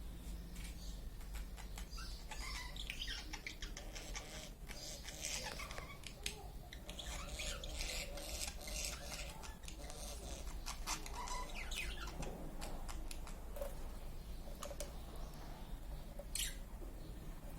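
Small birds chirping and twittering: many quick, high calls, busiest in the middle, with one louder call near the end.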